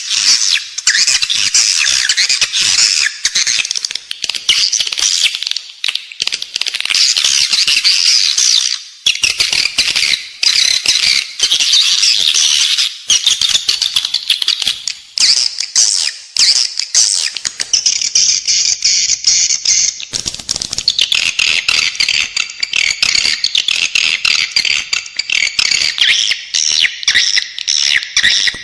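Edible-nest swiftlet calls: a dense, continuous, high-pitched twittering and clicking chatter of many birds. It is the in-building lure call that is played inside swiftlet houses to draw the birds in to nest. The chatter changes to a narrower, lower twitter about two-thirds of the way through.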